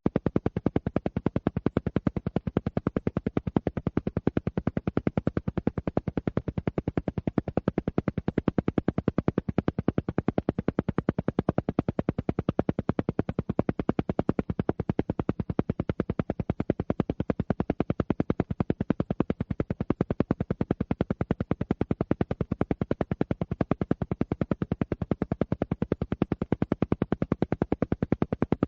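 An alpha-wave pulse track: rapid, evenly spaced pulses of sound, many a second, steady and unchanging, meant for brainwave entrainment.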